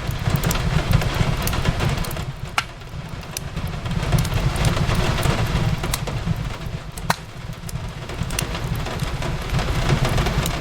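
Steady rain on a window mixed with a crackling fireplace, a low rumble underneath and scattered sharp pops from the fire, two of them standing out about a quarter of the way in and again about two-thirds in.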